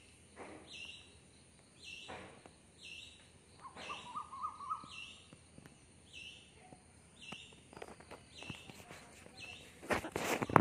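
A bird calling over and over, a short high call repeated about every three-quarters of a second, with a brief lower warbling note about four seconds in. Near the end a louder burst of noise comes in.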